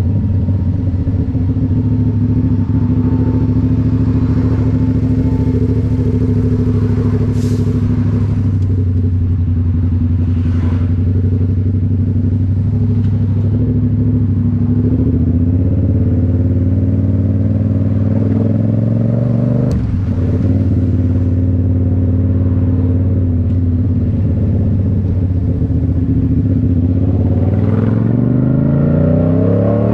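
Yamaha MT-07 parallel-twin engine through a Toce full exhaust, running loud and steady while riding. About halfway through it pulls up gradually through the revs, breaks off briefly as a gear is changed, then climbs again near the end.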